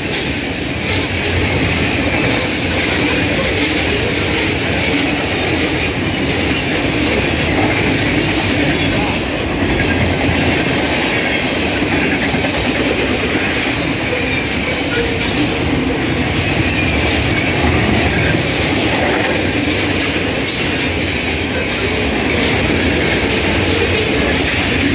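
A CN freight train's cars rolling past close by: a loud, steady noise of steel wheels on the rails that holds for the whole passage.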